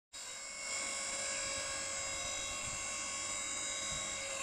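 Hydraulic log splitter's motor and pump running with a steady high whine, stepping up slightly just under a second in.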